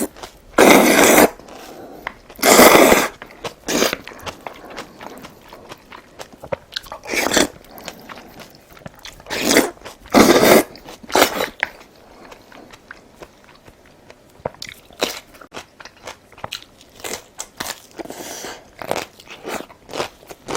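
A person biting and chewing crunchy food close to the microphone. Several loud crunching bites fall in the first half, followed by quieter chewing with small clicks.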